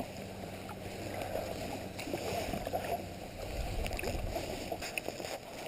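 Kayak moving on the water: steady low sloshing and swishing of water around the hull, with a faint steady hum underneath and a few light ticks.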